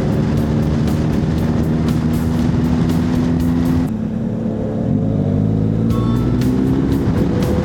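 Honda CB1100's air-cooled inline-four running under way. About four seconds in, the throttle eases and the engine note drops, then it climbs again as the bike accelerates.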